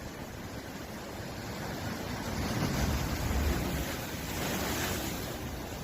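East Sea waves breaking: a steady wash of surf that swells louder around the middle.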